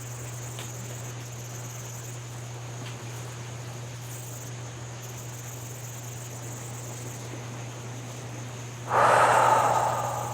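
Steady outdoor ambience by a flowing river: an even hiss of water with a steady high buzz over it. About nine seconds in, a sudden loud rush of noise comes in and fades away over a second or so.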